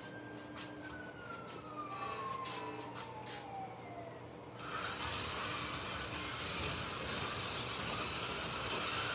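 Slot cars running on the track: an electric motor whine slides slowly down in pitch with light clicks, then about halfway through a louder, even whirring of the cars takes over.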